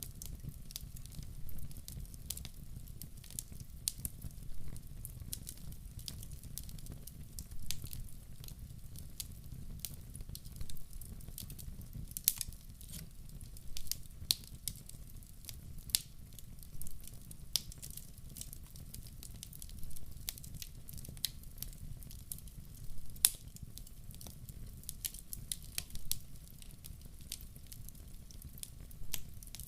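Log fire in a wood-burning stove crackling: irregular sharp pops and snaps, several a second at times, over a steady low rumble.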